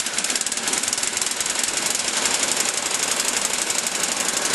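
Craftsman snow blower's engine running steadily just after a cold start, with a fast, even firing rhythm, idling as it warms up.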